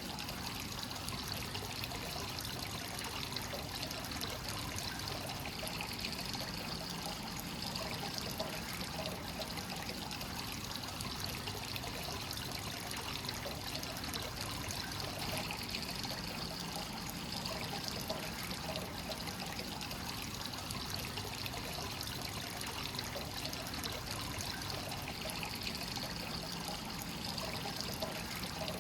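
Free-flowing hot spring water pouring steadily into a bath, a continuous trickle and splash of water.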